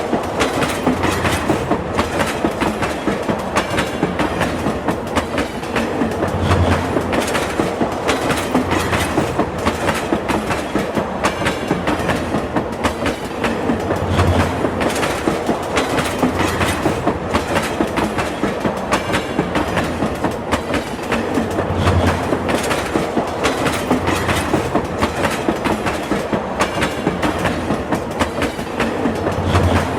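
Train running steadily, its wheels clattering over the rails in a dense, continuous clickety-clack. A low rumble swells briefly about every seven to eight seconds.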